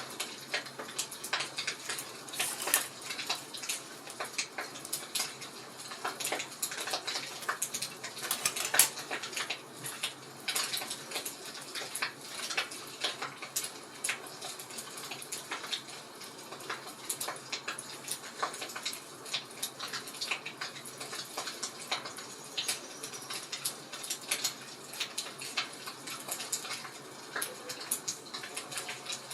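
Wood fire crackling and popping: many irregular sharp snaps over a steady hiss, with a few louder pops.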